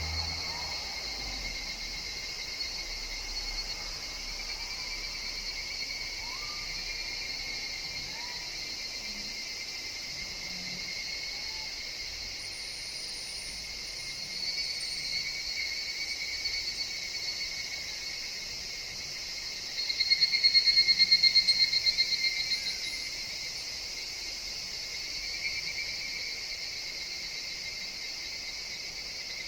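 A steady high insect chorus of forest cicadas. About twenty seconds in, a louder, rapidly pulsing higurashi (evening cicada) call rises over it for about two seconds.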